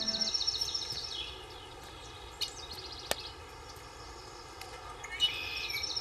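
Outdoor rural ambience with a bird's fast chirping trill, once near the start and again about five seconds in, over a steady background hiss.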